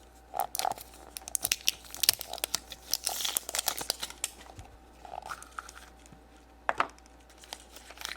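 Crinkly wrapper of a surprise egg being torn open and crumpled by hand: a run of sharp crackles, busiest in the first half, then sparser, with one louder snap near the end.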